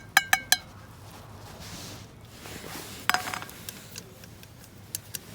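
Camp tableware or cookware clinking: four quick ringing clinks at the start, and another clink with a short rattle about three seconds in.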